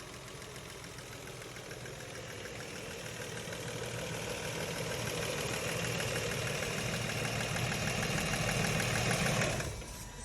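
Nissan Murano Z50's 3.5-litre V6 engine running, its revs rising gradually over several seconds, then dropping back off sharply near the end.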